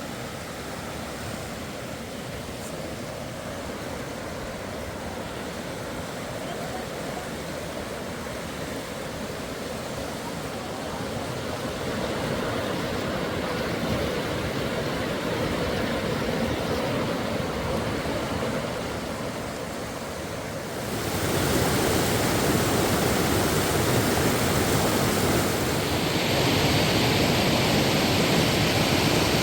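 Rushing water of a waterfall: a steady rush that slowly grows louder, then steps up suddenly about two-thirds of the way in and again a few seconds later.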